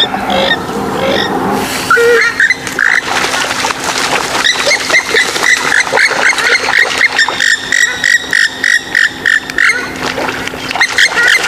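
Rail-family waterbird calling, of the swamphen and moorhen kind: short pitched calls, scattered at first, then running into a fast series of about five a second from about a third of the way in until near the end.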